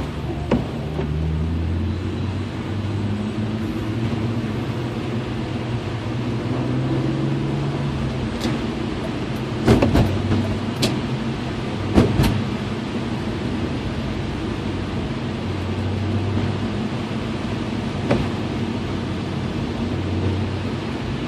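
BMW E36 M3's straight-six engine running while the car is driven, its pitch shifting up and down with speed. Several sharp knocks come about ten and twelve seconds in.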